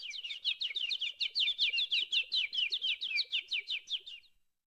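Bird chirping in a fast, even series of short down-slurred notes, about nine a second, fading away near the end.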